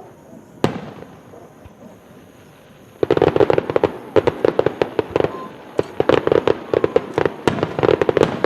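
Fireworks display: a single sharp bang, then a few seconds later a dense run of rapid crackling pops coming in several clusters.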